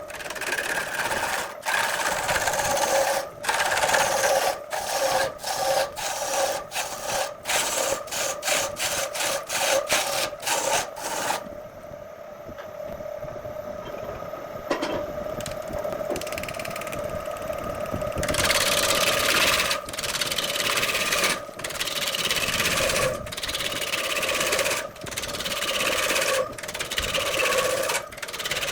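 A tool scraping wood in repeated strokes. The strokes quicken to about two a second, ease off into a quieter stretch, then resume more slowly over a steady hum.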